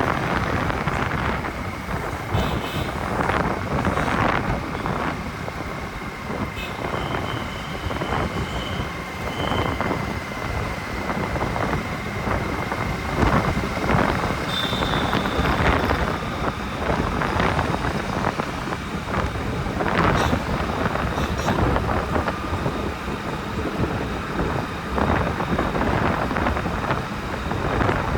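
Wind buffeting the microphone of a motorcycle riding through city traffic, over a steady rush of road and engine noise. A thin, steady high tone holds for about ten seconds in the first half, and a few short high tones come later.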